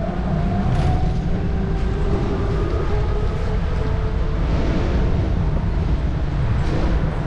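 Steady city street noise heard while riding a bicycle, dominated by a low rumble, with a few faint tones that glide slightly in pitch.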